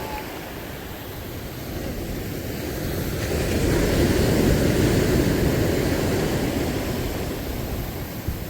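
Sea waves washing onto the shore, one swell building to a peak about halfway through and then fading, with wind rumbling on the microphone.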